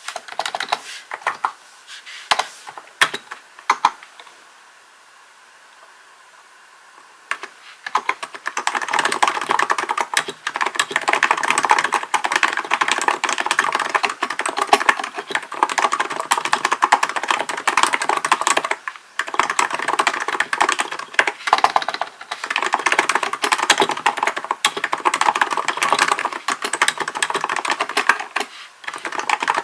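Typing on a Hansung GK898B electro-capacitive (contactless) keyboard. A few scattered keystrokes come first, then a pause of a few seconds. From about a quarter of the way in the typing turns steady and fast, with brief breaks near the middle and near the end.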